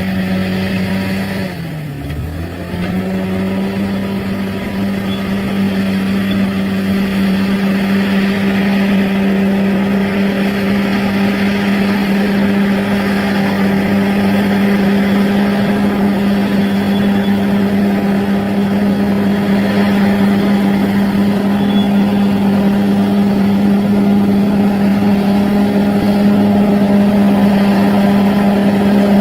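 Bulldozer's diesel engine running hard and steady. Its pitch sags for about a second, two seconds in, then comes back up and holds.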